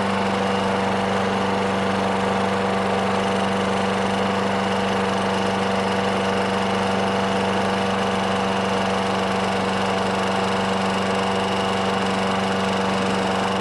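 Craftsman push mower's single-cylinder Briggs & Stratton engine running steadily at constant speed.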